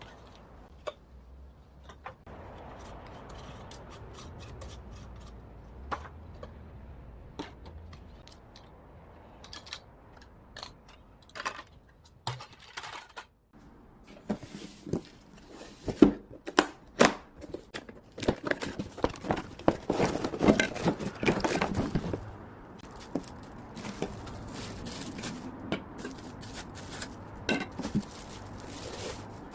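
Small objects being handled: irregular clicks, knocks and scrapes with some rustling, busiest in a dense run about two-thirds of the way through.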